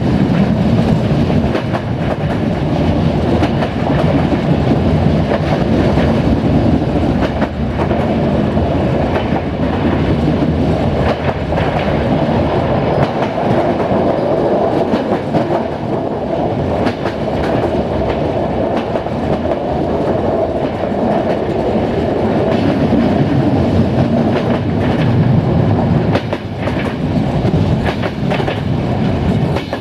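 Passenger train running along the line, a steady rolling rumble broken by the clickety-clack of its wheels knocking over rail joints.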